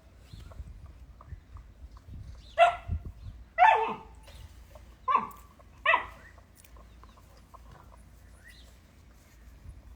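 A dog barking four times, about a second apart.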